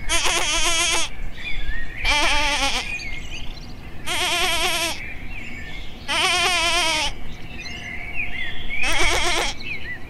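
Goat bleating five times, each a quavering bleat about a second long, roughly two seconds apart. Faint bird chirps can be heard between the bleats.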